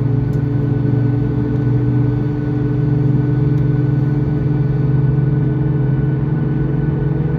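Boeing 737 MAX 8's CFM LEAP-1B jet engines running steadily, heard inside the passenger cabin as a loud drone with several constant hums.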